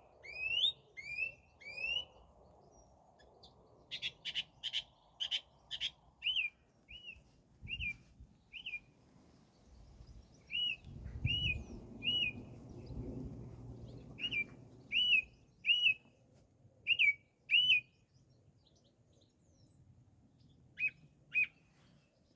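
A songbird singing: short whistled notes, each repeated several times in a row, with a quick rattle of clicky notes early on and pauses between phrases. A faint low rumble runs beneath in the middle.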